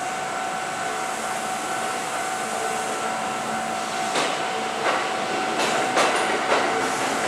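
Kintetsu limited express electric train running slowly through the station with a steady whine. From about four seconds in, wheel clacks over rail joints come in and grow louder.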